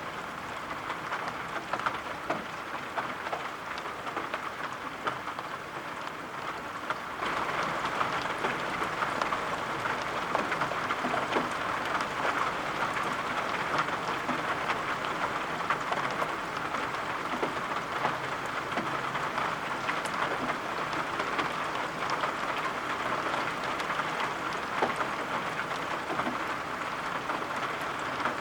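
Steady rain falling, with scattered individual drop taps; it gets louder about seven seconds in and then holds steady.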